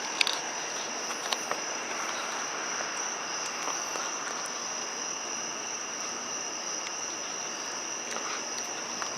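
Summer insect chorus: a steady high-pitched trill with a lower second band, continuous over a soft even hiss, with a couple of faint ticks about a second in.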